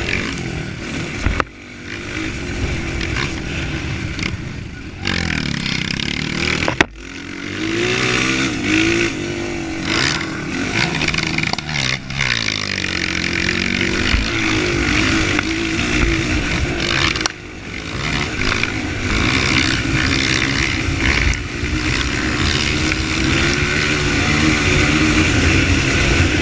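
Motocross dirt bike engines, small four-stroke singles of the Honda CRF230 class, revving up and down as they are ridden hard, with the throttle chopped sharply a few times.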